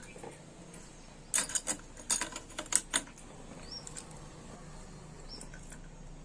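A quick run of sharp clicks and scrapes from about one to three seconds in, as small metal parts or tools are handled, then only faint background.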